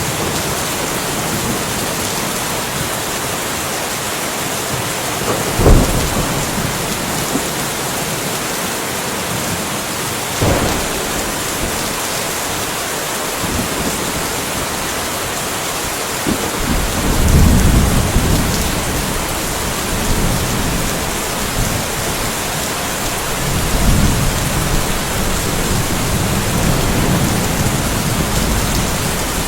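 Steady rain falling, with thunder. A sharp thunderclap about six seconds in is the loudest moment and a fainter one follows around ten seconds. In the second half, long low rumbles of rolling thunder swell and fade twice.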